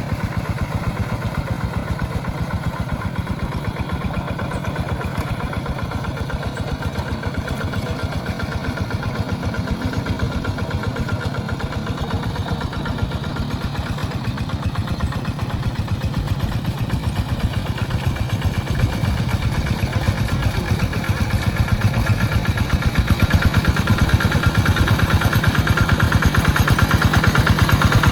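Tractor engine running steadily with a fast, even beat while it plows a wet rice paddy, growing louder over the last few seconds.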